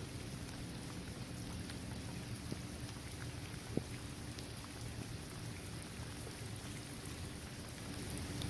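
Steady rain falling on a basketball court, trees and grass, with scattered single drops ticking through it and one sharper tick just under four seconds in.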